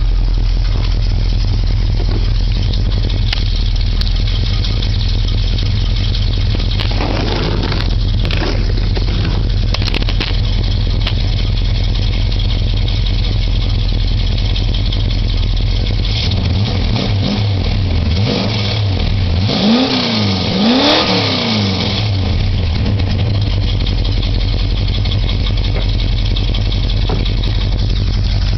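1971 Dodge Dart Swinger's 360 V8 idling through a new H-pipe exhaust with turbo mufflers, heard at the tailpipes. About two-thirds of the way in the engine is revved, with two quick blips of the throttle, then it drops back to a steady idle.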